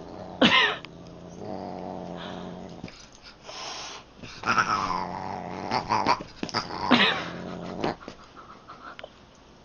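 Cat growling low and giving several loud yowls that rise and fall in pitch: the threatening noises of a cat facing off with a dog.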